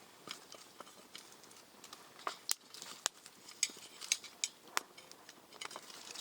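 Cooking utensils and cookware clinking and tapping lightly at a campsite cooking set-up: a dozen or so scattered short clicks and clinks, a few sharper ones ringing briefly.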